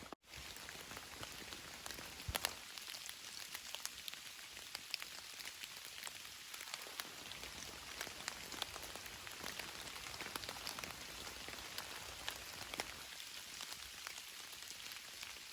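Steady rain falling, with many separate drops ticking close by over an even hiss. A stronger single drop hits a couple of seconds in.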